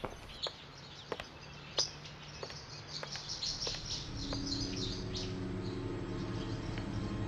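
Small birds chirping, with sharp taps at about a walking pace in the first half. A low steady drone comes in about four seconds in and grows.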